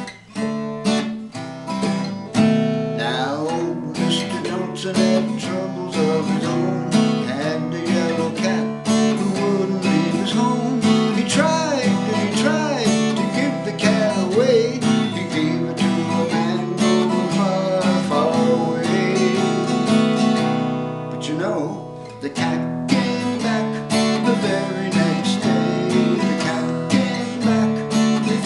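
Acoustic guitar strummed steadily as a folk-song accompaniment.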